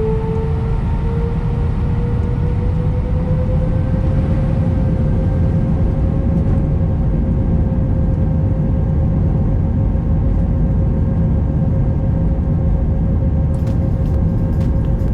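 Airbus A319 jet engines heard from the cabin, their whine rising in pitch over the first few seconds and then holding steady over a heavy rumble, as takeoff thrust is set.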